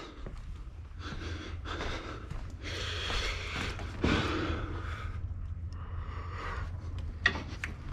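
A man breathing out heavily in a few loud, hissing sighs, over a steady low hum.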